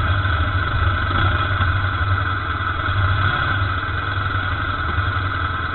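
BMW GS adventure motorcycle engine running steadily at low revs, picked up by a camera mounted on the bike, with a steady higher hum over the low engine note.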